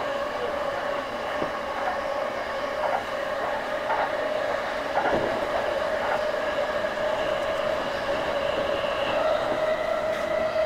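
Keihin-Tohoku line electric commuter train running, heard from inside the car: a steady whine over the running rumble, with a few faint clicks from the wheels.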